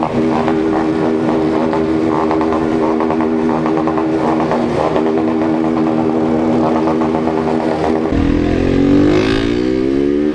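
Honda CG 160 single-cylinder motorcycle engine running at a steady speed. About eight seconds in, the note changes and several engine notes glide up and down over a heavier low rumble.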